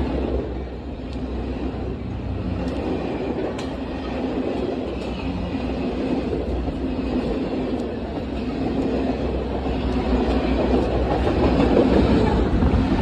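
Union Pacific train rolling past: a steady rumble of wheels on rail with faint clicks, growing louder toward the end.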